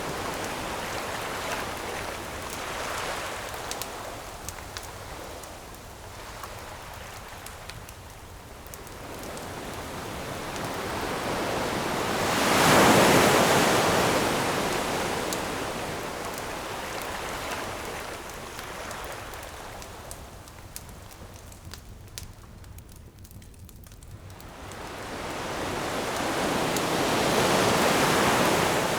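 Ocean waves breaking and washing up the shore in slow swells, loudest about 13 seconds in and again near the end. Small sharp crackles from a wood campfire are scattered through the quieter stretches between the waves.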